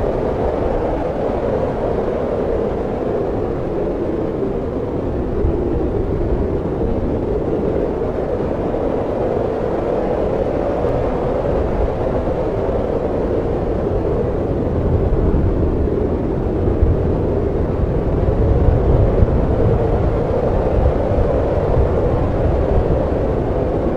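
Snowstorm wind blowing steadily with a deep rumble, swelling into stronger gusts around two-thirds of the way through.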